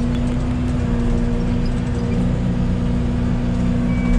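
Yanmar ViO80 excavator's diesel engine running steadily with a constant hum.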